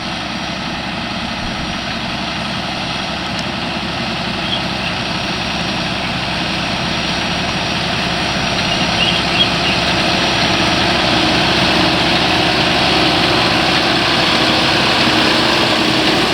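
Farm tractor engine running steadily with machinery noise, growing gradually louder.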